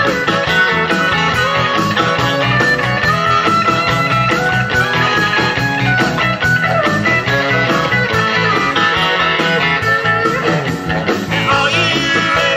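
A rock band playing an instrumental passage, with guitar to the fore and no singing.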